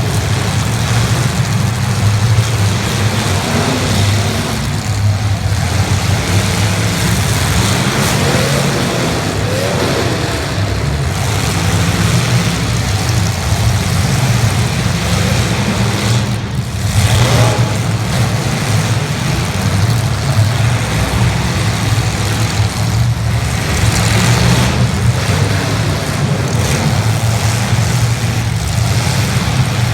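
Several demolition derby cars' engines running hard together, loud and continuous, with revs rising and falling as the cars accelerate and ram one another.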